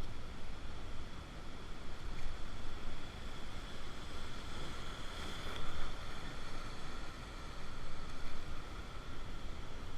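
Steady rush of river rapids around a raft, with wind buffeting the microphone.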